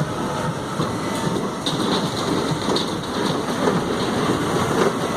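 Steady rumbling noise with irregular clatter, like wheels running on a track.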